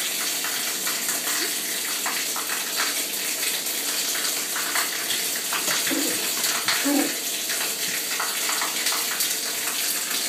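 Steady hiss of running water, with scattered small knocks and clicks over it.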